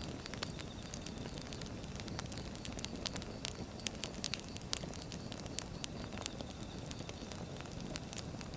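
Wood fire burning, with a steady low rumble and frequent sharp, irregular crackles and pops of the logs.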